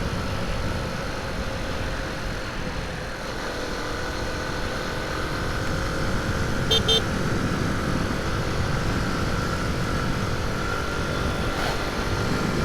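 Honda C90's small single-cylinder four-stroke engine running steadily at cruising speed on the move, with low wind and road rumble.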